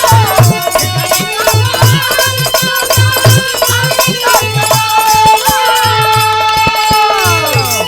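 Bhojpuri folk-song accompaniment between sung lines: a steady hand-drum beat under jingling percussion, with a held melodic line that slides down near the end.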